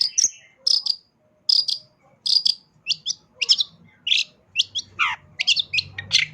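Long-tailed shrike (cendet) singing: a run of short, sharp, high chirps, a few per second, coming quicker toward the end, with one falling note about five seconds in.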